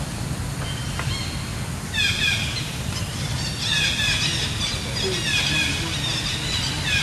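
Bird calling in repeated groups of short, falling chirps starting about two seconds in, over a steady low rumble.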